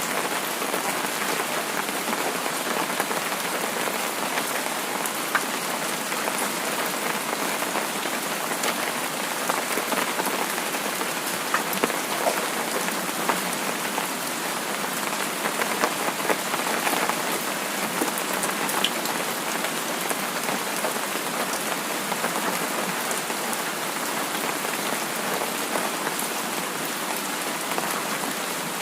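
Steady rain falling, a dense even hiss with scattered drops pattering on a surface.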